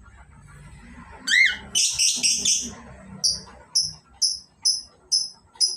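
Cockatiels calling: a whistle rising and falling about a second in, a loud harsh burst of calls just after, then a run of short high chirps about two a second.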